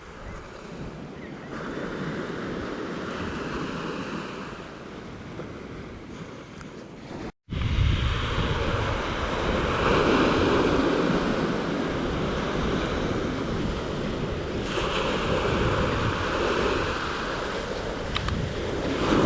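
Waves crashing on a beach, surf noise swelling and ebbing as each wave breaks. The sound drops out suddenly for a moment about seven seconds in, then comes back louder.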